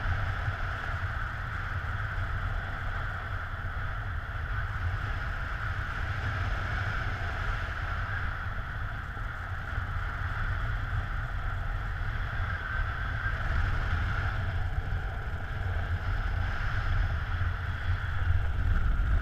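Airflow rushing over the microphone in paraglider flight: a steady low buffeting rumble with a hiss on top.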